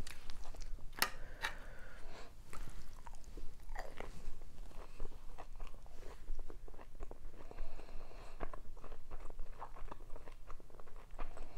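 Close-miked chewing of food: a mouthful being bitten and chewed, with irregular wet crunches and clicks.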